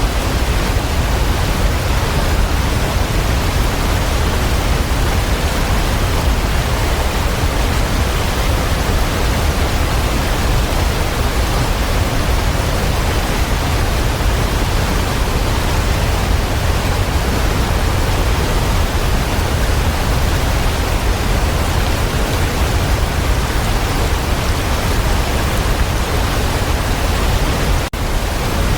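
Waterfall: a steady, even rush of falling water, heaviest in the low rumble, with a momentary dropout near the end.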